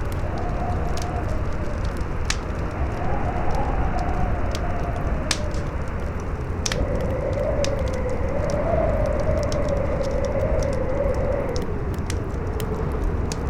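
Campfire crackling, with scattered sharp pops, under a strong howling wind whose pitch wavers up and down over a low steady rumble.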